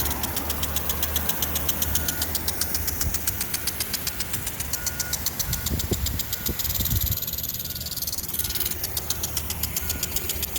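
Toro Maxi-Paw impact sprinkler running, its arm ticking rapidly and evenly as it drives the spray around, over a low steady rumble. The ticking fades for a moment about three-quarters of the way through, then picks up again.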